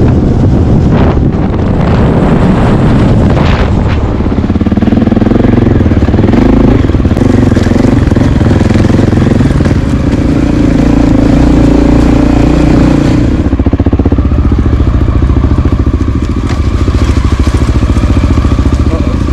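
Dual-sport motorcycle engine heard from the rider's own bike, its note rising and falling with the throttle, with wind rumble on the microphone.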